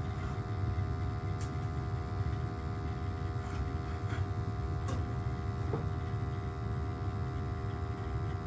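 Gas burners of a Crown hot water boiler firing with a steady low rumble just after being relit, under a steady hum, with a few faint clicks.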